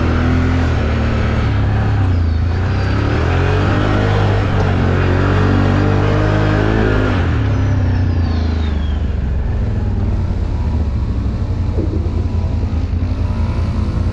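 An ATV engine running under load in four-wheel-drive low through mud. It holds a steady note, changes pitch about halfway through, and turns choppy and pulsing near the end.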